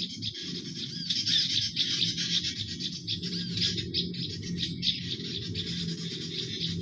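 Bird-luring call playback: dense, rapid high chirps and short looping notes of small garden birds, with a steady low drone underneath.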